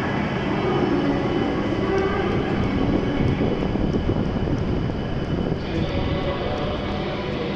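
E7-series Hokuriku Shinkansen train moving along the platform: a steady, loud rumble and rush of running noise, with the higher hiss dropping away about five and a half seconds in.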